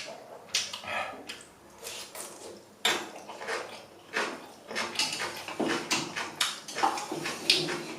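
A person eating instant ramen noodles: repeated slurps and chewing in quick bursts, with light clicks of utensils against the bowl.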